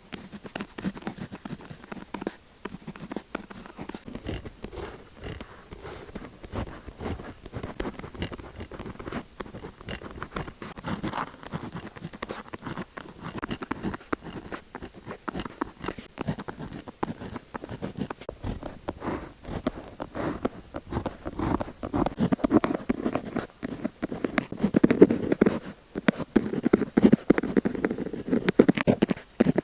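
Close-miked pen tips scratching and tapping on paper: a dense run of small scratches and clicks that grows louder over the last several seconds.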